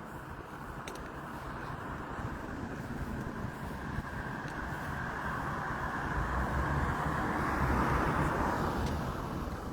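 A car driving past: road noise swells over several seconds, is loudest about eight seconds in, then fades away.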